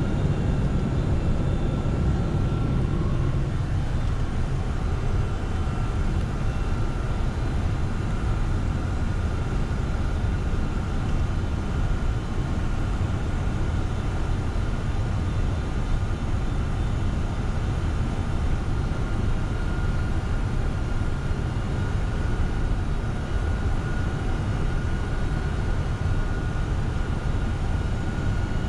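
Steady flight-deck noise of a Boeing 747-400 freighter on final approach: a constant low rumble of airflow and engines with a thin, steady high tone over it.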